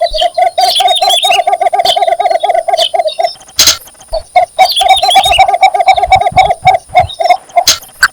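Cinnamon bittern giving its advertising call: long runs of rapid, low, clucking notes, about nine a second, with a short pause near the middle.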